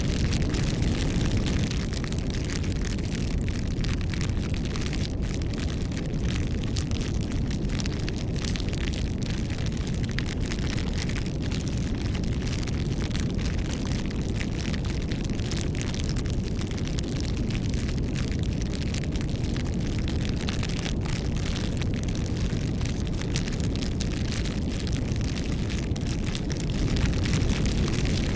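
Wood bonfire burning: a steady low rumble of flame with frequent small crackles and pops throughout.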